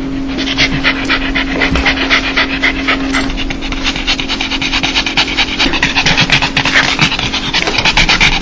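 A dog panting fast with its mouth open, quick breathy huffs of about six a second. This is the happy, excited panting known as a dog 'laugh'. A steady low hum runs underneath.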